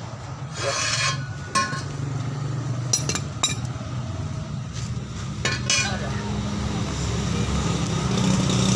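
Metal tools and parts clinking and knocking about half a dozen times, some strikes ringing briefly, during work on a truck differential, over a steady low hum.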